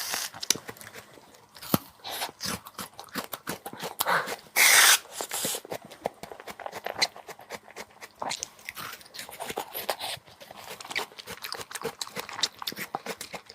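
Close-miked eating: biting and chewing frozen fruit, a steady run of crunchy clicks and wet smacks, with a louder crackling burst about four and a half seconds in.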